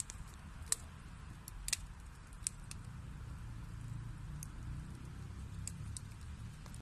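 Wood fire burning in a fireplace: a steady low rumble and hiss of the flames with scattered sharp crackles and pops of the burning logs, three louder pops in the first half.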